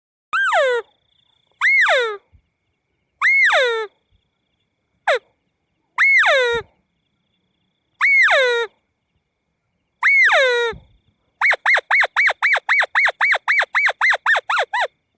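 Crake ('burung tikusan') calls: seven loud, sharply falling calls spaced about two seconds apart, then a fast run of about eighteen short notes at about five a second. The dead silence between calls suggests a recorded call played as a lure.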